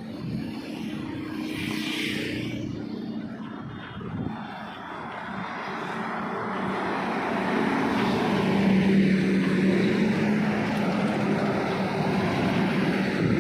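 Heavy truck on a highway, its engine drone and tyre noise growing louder as it approaches and passes, loudest about nine seconds in.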